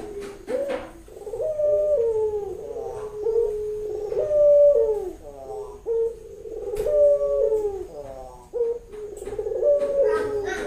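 Female ringneck dove (puter) cooing, repeated phrases about every three seconds, each rising then falling in pitch. It is the call a hen in breeding condition gives to invite a male to mate.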